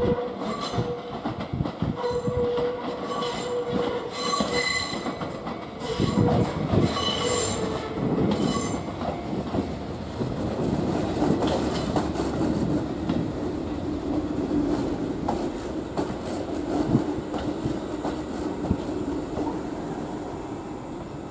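Fujikyu electric train rolling slowly over the railroad switches: steel wheels squeal on the curve for the first several seconds, then clack over the points, settling into a steady rolling rumble that fades near the end.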